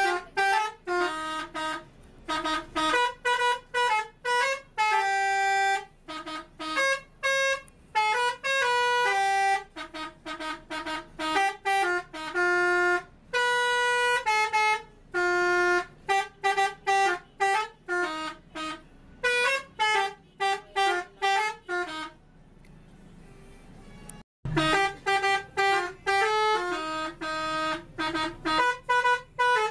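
A truck's telolet multi-tone air horn playing a quick melody of short, separate notes. About twenty-two seconds in it stops for two seconds, then the tune starts again.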